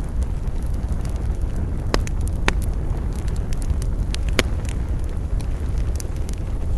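Wood campfire crackling, with sharp pops from the burning wood, the clearest about two seconds in, again half a second later and near four and a half seconds, over a steady low rumble.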